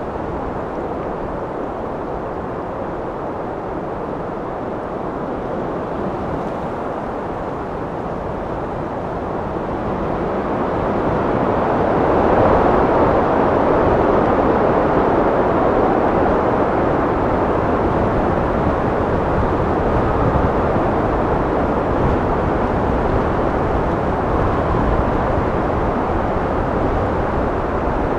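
Steady wind blowing, a low rushing noise that builds into a stronger gust about ten seconds in and stays stronger.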